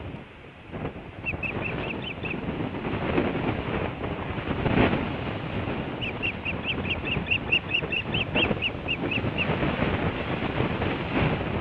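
Osprey calling: runs of short, high chirps repeated quickly, a brief run about a second in and a longer one of several seconds about halfway through, over a steady rushing noise.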